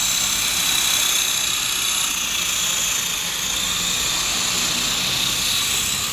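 Esky Big Lama coaxial electric RC helicopter in flight: its motors, gears and rotors give a steady high whine that wavers slightly in pitch.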